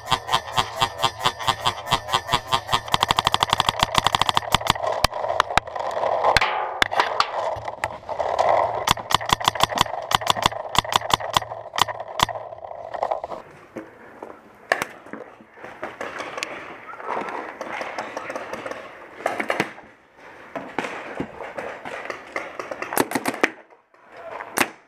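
Paintball markers firing: rapid, evenly spaced strings of shots that are fastest about four seconds in, then thin out into scattered single shots and short bursts.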